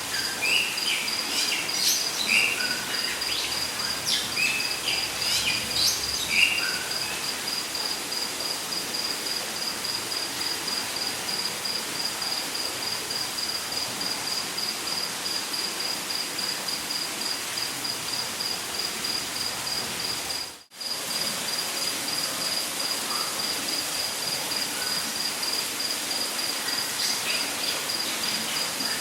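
Rainforest ambience: an insect trilling steadily in rapid pulses at one high pitch, over an even hiss of falling water, with birds chirping in the first several seconds and again near the end. The sound drops out briefly about two-thirds of the way through.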